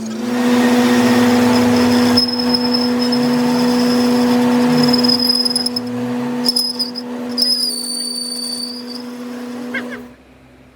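Metal lathe running with a steady motor hum, loud harsh noise in the first two seconds and intermittent high squeals as it machines a steel axle shaft; the sound cuts off suddenly near the end.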